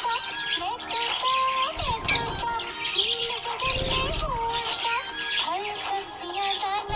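Budgerigar chirping in many quick, high chirps over background music with a slow melody.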